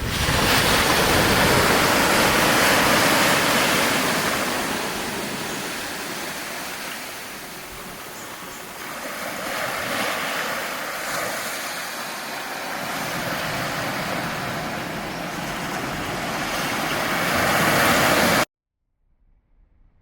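Surf breaking and washing up a sandy beach, a steady rush that swells and ebbs every few seconds, then cuts off suddenly near the end.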